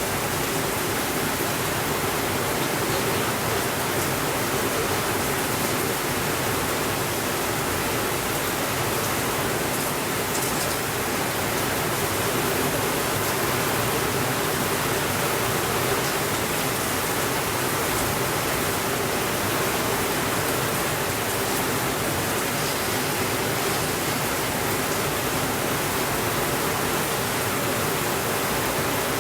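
Steady rainfall, a dense even hiss that neither swells nor fades, with a faint tick now and then.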